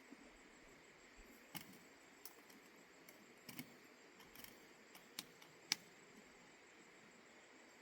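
Quiet background hiss with a handful of short, sharp clicks and taps at irregular intervals, the loudest a little before the end.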